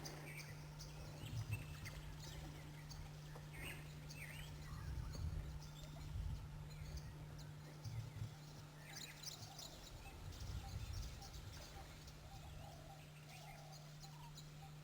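Faint natural ambience: scattered high bird chirps and short calls, with a few lower wavering calls in the second half, over a steady low hum and occasional soft low rumbles.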